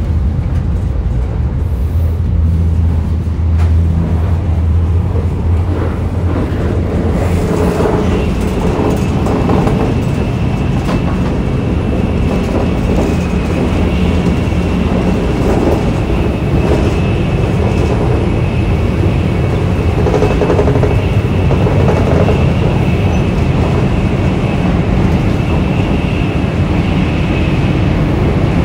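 Shinkansen bullet train running at speed, heard inside the passenger car as a steady, loud rumble and rush, with a thin high whine joining about a third of the way in.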